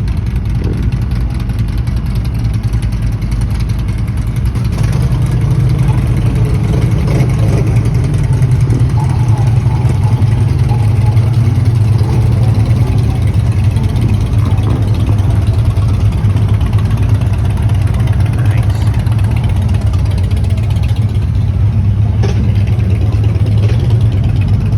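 Boat engine running steadily under way, a deep even hum that picks up a little about five seconds in.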